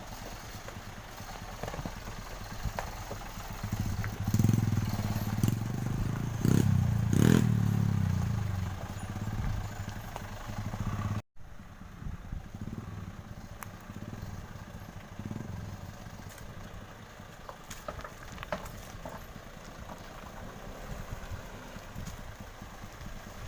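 A laden sugarcane truck's engine runs loud for several seconds, pulling past with a heavy low drone. The sound then cuts off abruptly, and quieter road traffic follows.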